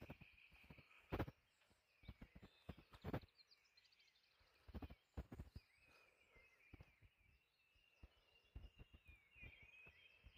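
Faint birdsong: a continuous high, wavering warble and trills, broken by scattered short low thumps and knocks.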